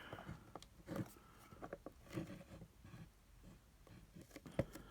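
Faint scattered clicks and light knocks of a plastic charger case being handled and pressed back together, with one sharper click near the end.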